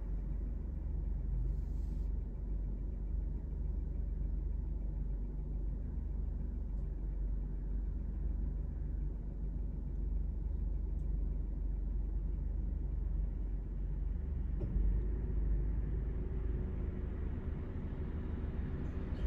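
Low, steady rumble of a car idling while stopped in city traffic. Near the end a steadier, higher hum joins as other cars approach and cross.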